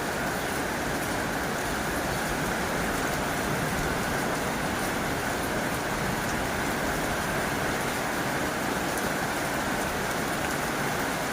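Heavy rain drumming steadily on a tin roof, a dense even hiss of drops.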